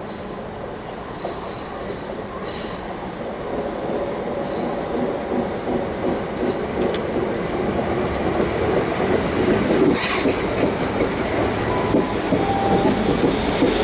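Class 350 Desiro electric multiple unit running into a station platform, getting steadily louder as it draws closer and slows to stop. Its wheels and brakes squeal briefly about two and a half seconds in and again near ten seconds.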